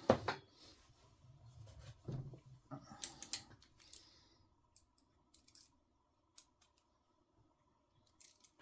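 Faint clicks and light rustling of small parts and hand tools being handled, a handful of them in the first few seconds, then near quiet with only a faint steady tone.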